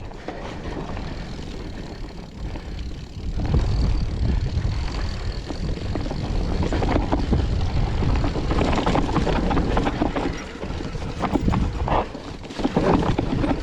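Noisy rumble of riding a bicycle, with wind on the microphone and road noise. It gets louder about three and a half seconds in, and scattered clicks and rattles follow.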